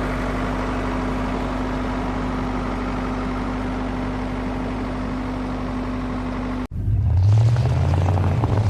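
Motor-vehicle engine running steadily with a constant low hum. About six and a half seconds in it cuts off abruptly and a louder, deeper engine note takes over.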